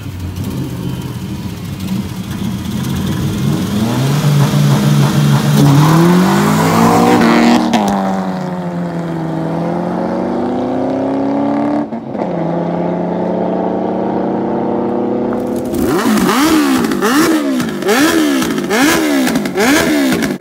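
Cars launching hard from a standing start. Their engines rise in pitch for a few seconds, then fall away as they pull off. About sixteen seconds in, a Honda motorcycle engine is revved in quick repeated blips, its pitch swinging up and down over and over.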